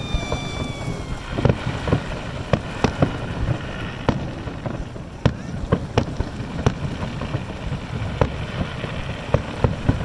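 Aerial fireworks display bursting across the water: an irregular string of sharp bangs and pops, one to three a second, with a falling whistle in the first second or so.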